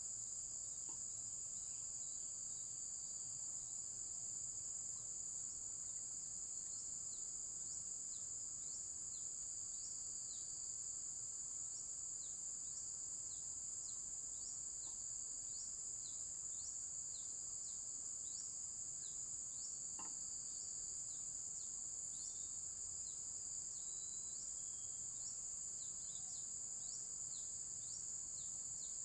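Steady, high-pitched insect chorus, with short high chirps repeating about once or twice a second over it. A single faint click comes about two-thirds of the way through.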